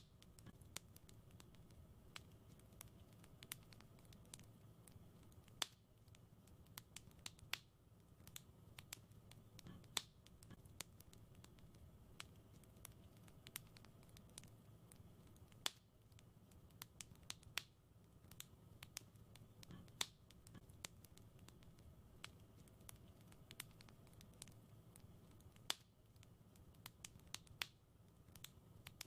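Wood fire crackling in a fireplace: irregular sharp snaps and pops, a few much louder than the rest, over a soft low rumble of the flames.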